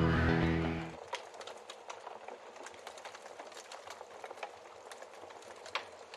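Wood fire crackling, with irregular sharp pops from the logs. Music is heard at first and fades out about a second in.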